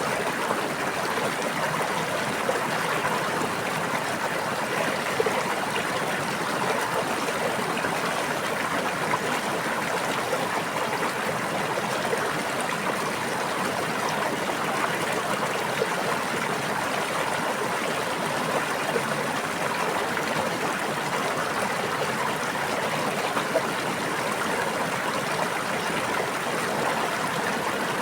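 A small stream babbling steadily, an even rush of flowing water with small splashes scattered through it.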